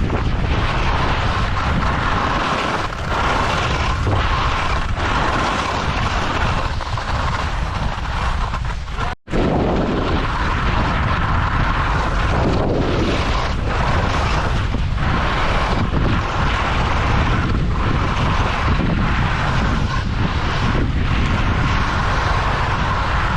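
Strong wind buffeting the camera microphone: a loud, steady, rumbling roar. It cuts off for an instant about nine seconds in, then carries on.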